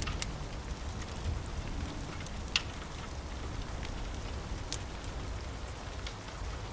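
Steady rain with a low rumble underneath, broken by scattered sharp clicks, the loudest about two and a half seconds in.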